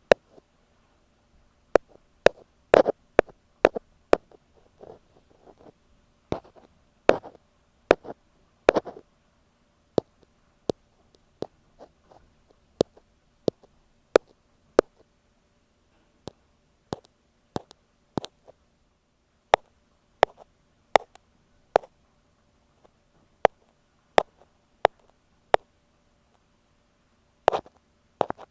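Ear pick tapping on an earphone microphone: sharp, irregular taps, a few of them drawn out into short scratchy rubs.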